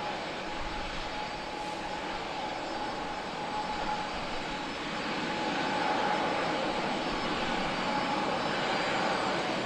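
Jet airliner engines running, a steady rush with a high whine, growing louder about halfway through.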